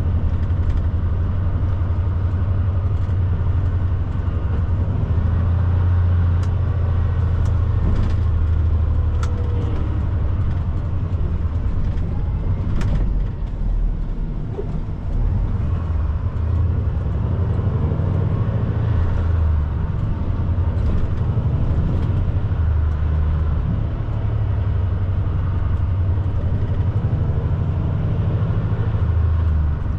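Semi truck's diesel engine running under way, a steady low rumble heard from inside the cab, with a few light clicks and rattles over it.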